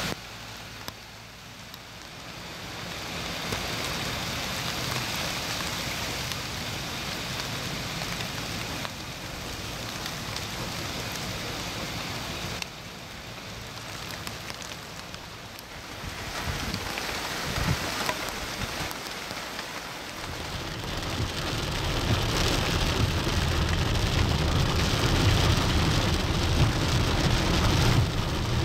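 Steady rain falling on plants and ground, its hiss changing level abruptly every few seconds. A low rumble builds in the second half.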